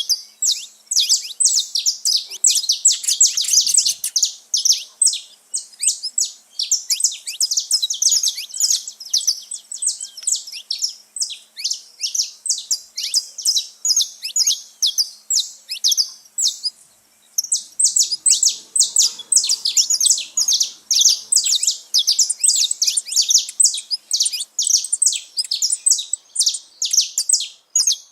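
Saffron finches singing, a fast, unbroken stream of high, sharp chirps that pauses briefly about two-thirds of the way through.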